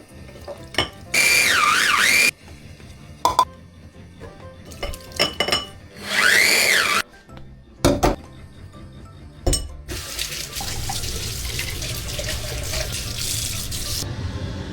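A water tap running steadily into a sink for about four seconds near the end, after a series of knocks and clinks from handling things. Twice earlier there are a second-long, loud, sweeping whistling tones.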